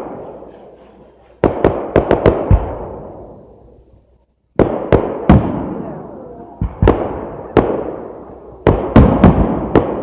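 Aerial fireworks shells bursting: loud sharp bangs in quick clusters, each trailing off in a long rolling echo. There is a brief lull about four seconds in, then the bangs come thicker.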